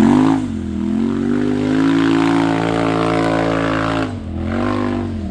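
Off-road vehicle engine under throttle. Its pitch rises at the start and holds steady at high revs for about three and a half seconds, then drops about four seconds in, with a short rise and fall just after.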